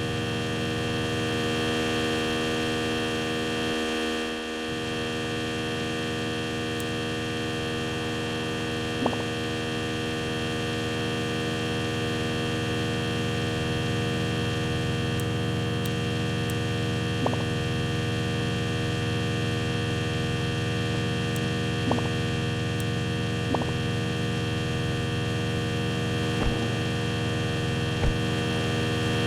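Steady electrical hum with many evenly spaced tones, broken by a few short clicks and a brief dip about four seconds in.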